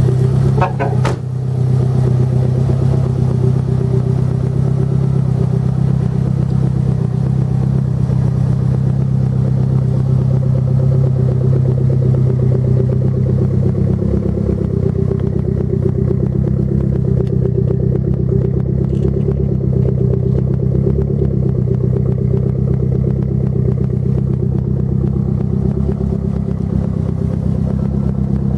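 Lancia Delta HF Integrale 16V's turbocharged 2.0-litre DOHC 16-valve four-cylinder engine idling steadily at a constant pitch.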